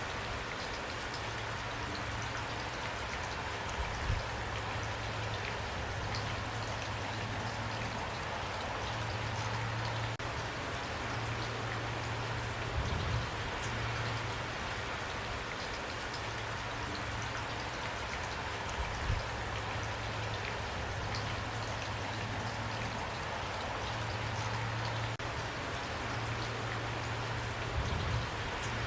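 Steady rain falling, an even hiss of drops, with a low hum that comes and goes and a few brief low thumps.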